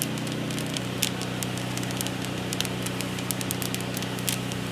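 Coffee roaster running with a steady motor and fan hum that shifts slightly in pitch about a second in, over scattered sharp crackles and clicks from freshly roasted beans in the cooling tray.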